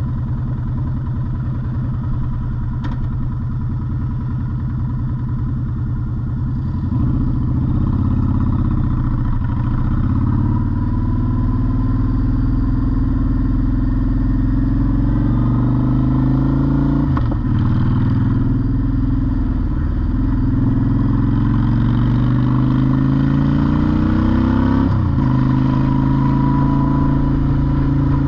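Honda Shadow motorcycle's V-twin engine running low and steady, then about seven seconds in it gets louder and accelerates, its pitch climbing in each gear with a short dip at each of about four upshifts, before settling into steady cruising near the end.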